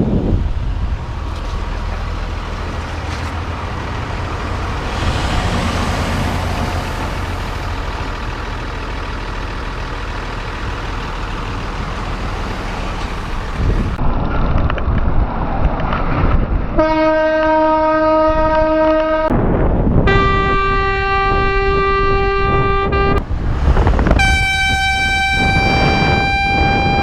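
Steady wind and road noise on a bicycle helmet camera for about fourteen seconds, then three long air-horn blasts, each a few seconds long and each at a slightly different pitch.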